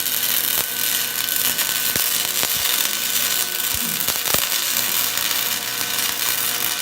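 Welding on the steel door bars, a steady crackling hiss scattered with sharp pops.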